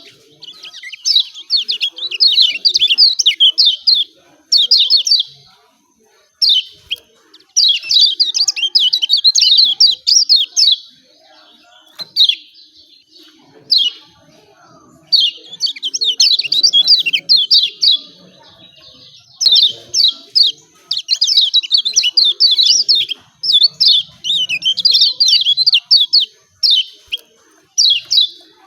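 Kecial kuning white-eye calling in runs of rapid, high 'ciak ciak' chirps, each run lasting a second or two with short pauses between.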